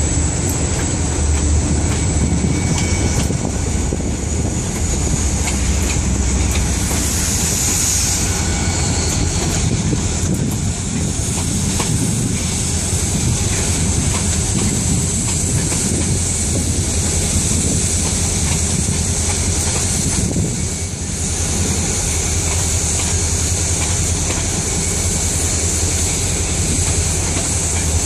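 Empty freight train of EMD SD40-series diesel locomotives passing close: the locomotives' turbocharged V16 diesels rumble while the empty wagons roll by with a steady clatter of wheels on the rails.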